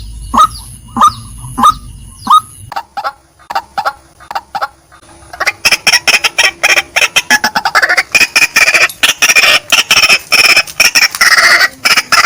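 Female white-breasted waterhen calling: sharp, loud notes about one every 0.6 s, then after a short break a faster, denser run of harsh calls from about five seconds in.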